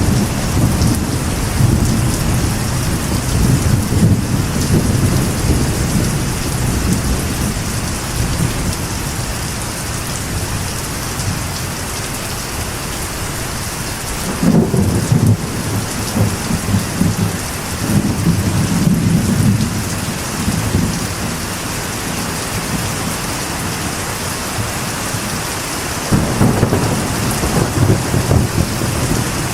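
Steady rain drumming on a metal roof, with rolling thunder rumbling at the start, again about halfway through, and near the end.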